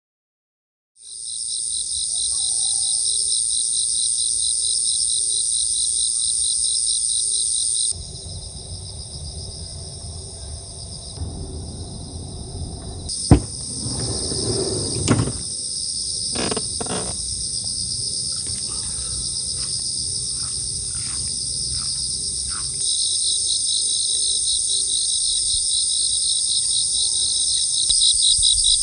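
A dense chorus of insects chirping, a steady high pulsing trill that thins about eight seconds in and swells again later. A few sharp knocks and clicks sound midway through.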